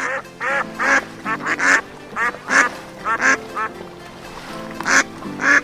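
Ducks quacking, a dozen or so short, loud quacks in an irregular series, over background music.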